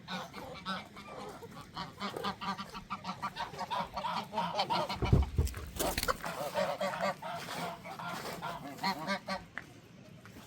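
Farm birds calling in a dense stream of short, rapid, repeated calls from several birds at once. A brief low thump about halfway through.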